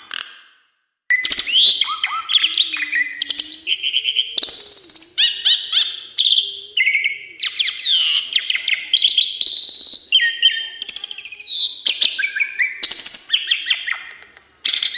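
Asian pied starling (jalak suren) singing a long, varied run of whistles, chirps and rapid trills, packed with changing fill-in phrases of the kind bird keepers train in. It breaks off briefly just after the start and again near the end.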